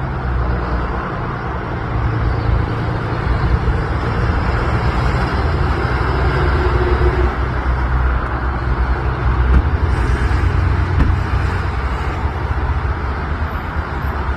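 A motor vehicle's engine running steadily at idle, a low even hum with road-side noise over it.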